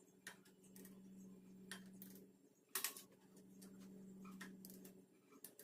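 Faint scattered clicks and light knocks over a steady low hum, with one sharper click about three seconds in.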